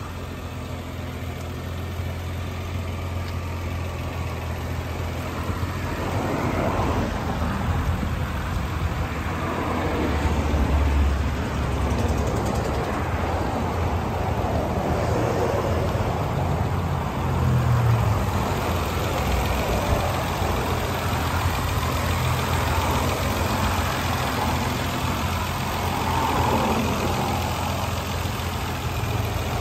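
2009 Nissan GT-R's VR38DETT 3.8 L twin-turbo V6 idling steadily, growing louder over the first several seconds.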